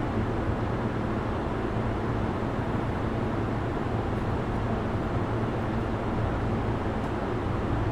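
Inside a Sotetsu 12000 series electric train standing still: a steady hum and rush of its onboard equipment, with no traction motor sound.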